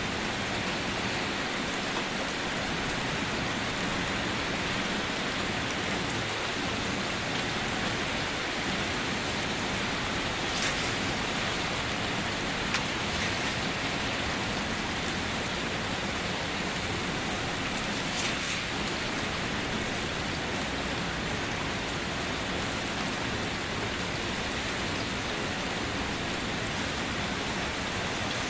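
Steady rain falling on surfaces, an even hiss with a few individual drops now and then.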